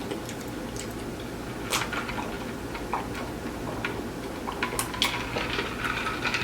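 Crunchy hard-shell tacos making scattered light clicks and crackles, growing more frequent near the end, over a low steady room hum.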